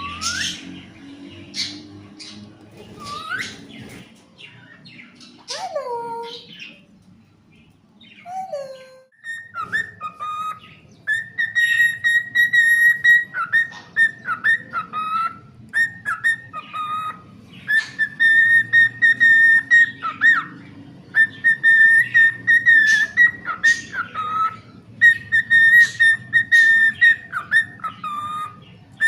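Cockatiel whistling its song: a few scattered chirps and falling calls, then from about nine seconds a repeated whistled tune of long held high notes that dip briefly to a lower note.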